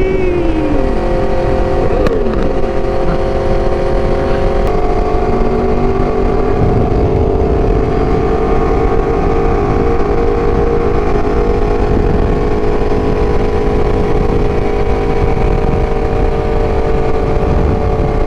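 Aprilia RSV4's V4 engine running under way with wind rushing over the microphone. The revs drop twice in the first three seconds, the note changes about five seconds in, and then the engine holds steady cruising revs.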